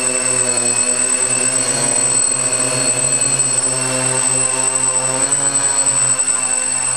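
Quadcopter with four Altigator A3540 brushless motors mounted upside down, spinning 14-inch Graupner props in flight: a loud, steady multi-tone propeller buzz whose pitch wavers slightly as the flight controller adjusts motor speeds. A constant thin high whine sits above it.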